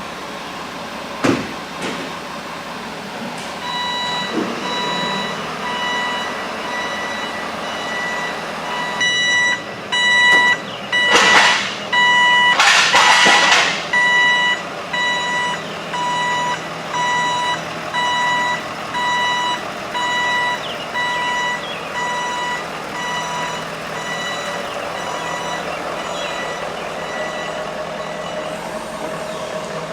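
Vehicle backup alarm beeping steadily about once a second, stopping a few seconds before the end, with two loud bursts of air hiss about a third of the way in.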